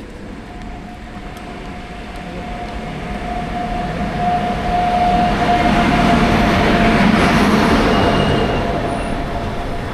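Passenger train rolling along the platform: a rumble that swells to its loudest about two thirds of the way in and then eases off, with a steady high-pitched squeal over most of it.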